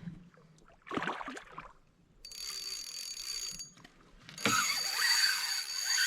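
Fishing reel ratcheting in two bursts, the first about a second and a half long and the second about two seconds, as a hooked northern pike is played on the line.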